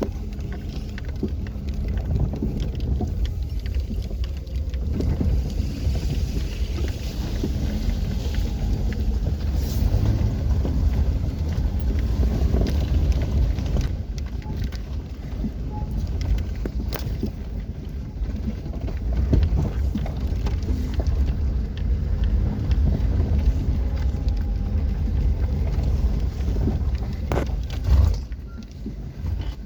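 Vehicle driving, a steady low rumble with a few knocks, one louder near the end.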